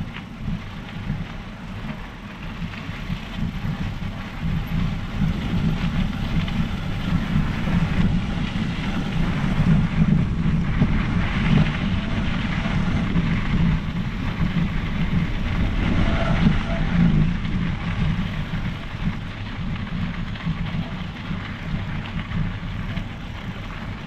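Riding noise from a Specialized Epic Pro mountain bike: wind rushing on the microphone over the rumble of tyres rolling along the trail, a little louder in the middle.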